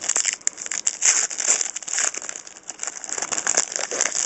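Plastic trading-card pack wrapper being torn open and crinkled by hand, a busy crackling rustle of many quick crackles that stops at about four seconds in.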